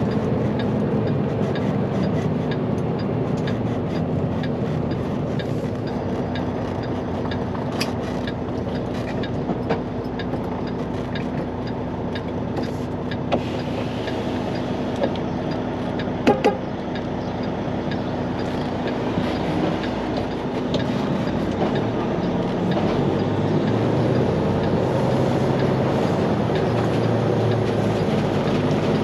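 Semi truck driving on the road, heard from inside the cab: a steady diesel engine drone with road noise, and a few brief clicks or rattles.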